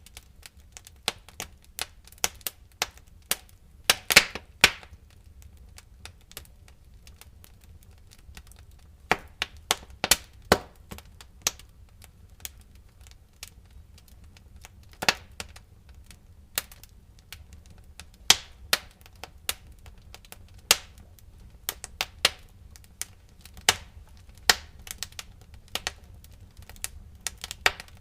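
Wood fire crackling in a fireplace: irregular sharp pops and snaps of burning firewood, some much louder than others, over a faint steady low rumble.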